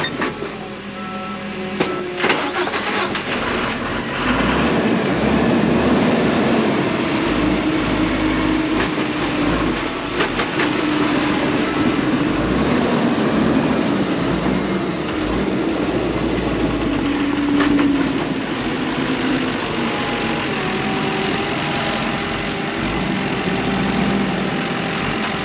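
Diesel engine of heavy earthmoving equipment running steadily under load, its pitch rising and falling as it works, with a few clanks in the first couple of seconds.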